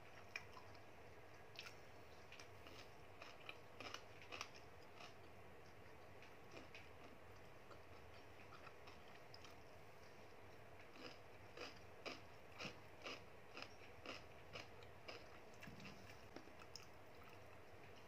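Close-up chewing of a mouthful of food, soft wet and crunchy mouth sounds at about two chews a second. It comes in two spells, one early and one more regular spell in the second half.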